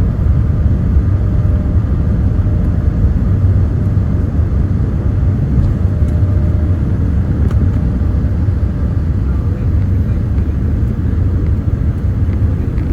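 Steady low rumble of engine and airflow noise heard inside the economy cabin of a Boeing 787-8 climbing after takeoff, with a faint steady hum over it.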